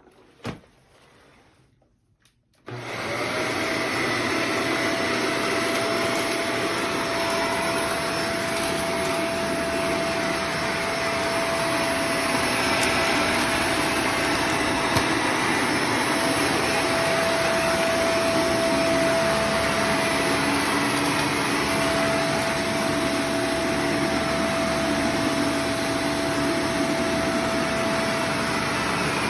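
A click, then a vacuum cleaner switches on about two and a half seconds in and runs steadily with an even whine.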